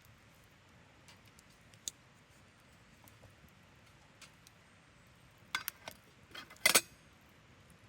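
Light clicks and clinks of small hard objects being handled: a few scattered ones, then a quick cluster of sharper, louder clicks near the end, over faint steady background noise.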